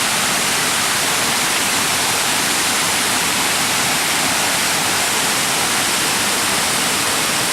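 Erawan Falls' first tier: a steady rush of water pouring down the cascade, an even hiss with no change in level.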